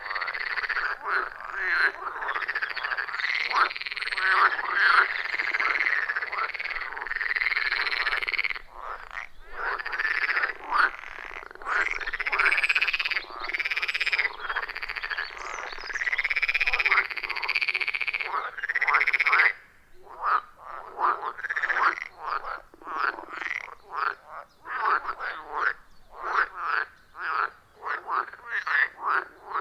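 A chorus of many frogs calling at once, their overlapping croaks rising and falling in pitch. A little past halfway the chorus thins out into separate short calls in quick succession.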